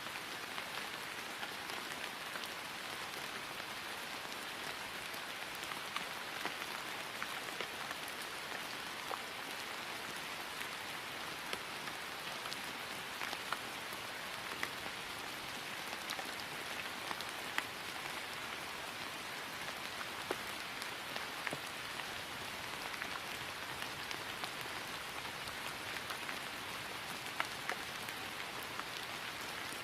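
Steady rain falling on grass, an even hiss with scattered individual drop ticks.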